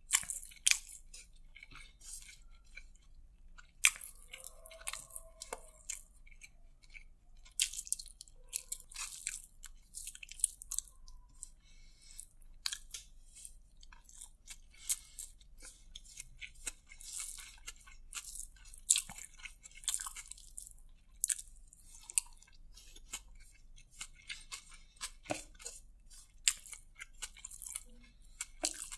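Close-miked chewing of a mouthful of rice, eaten by hand: irregular wet mouth clicks, smacks and crackles.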